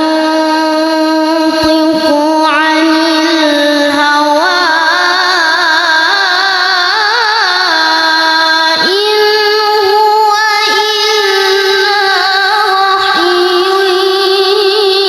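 A child reciting the Quran in melodic tilawah style, in a high voice. Long held notes carry wavering ornaments, with short breaks for breath about nine seconds in and again about thirteen seconds in.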